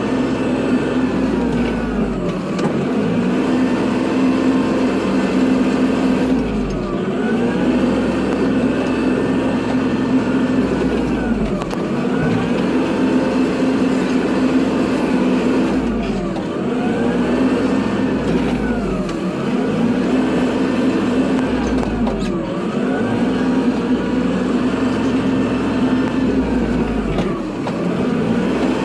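Kubota tractor's diesel engine running steadily while plowing snow, with a whine that rises and falls in pitch about every four to five seconds and a deeper pulse at about the same spacing.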